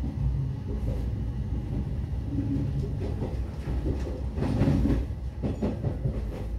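Train running along the track: a steady low rumble, with a louder cluster of wheel clacks about four and a half seconds in.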